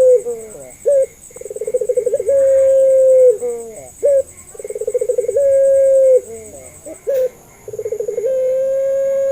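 Puter pelung dove cooing. Each call opens with a quick rattle of pulses that speeds up, runs into a long held coo that drops off at the end, and is followed by a short clipped note; the call repeats about every three seconds.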